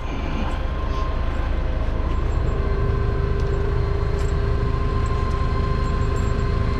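Heavy equipment diesel engine running steadily with a low rumble. A steady whine joins in about two and a half seconds in and holds.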